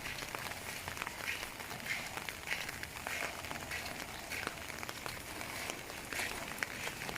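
Steady rain falling, with footsteps on wet ground at a walking pace, less than a second apart, and scattered sharp clicks of drops.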